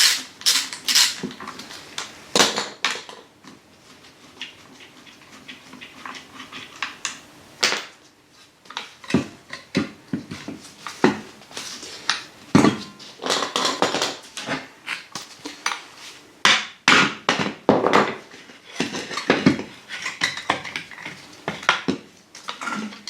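Hand tools and steel parts clinking and clanking as bolts are undone on a car's rear shock absorber and hub assembly. The clanks are irregular, with a quieter spell a few seconds in.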